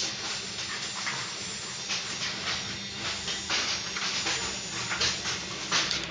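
Sheet metal being worked with hand tools: irregular short hissing scrapes of metal, several a second, over a steady low hum.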